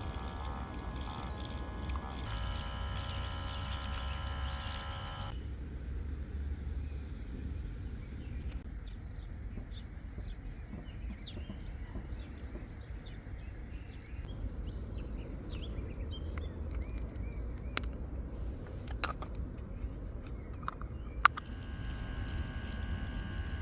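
Outdoor ambience: a steady low rumble with scattered short bird chirps and a couple of sharp clicks. Steady sustained tones sound for the first few seconds, cut off suddenly, and return near the end.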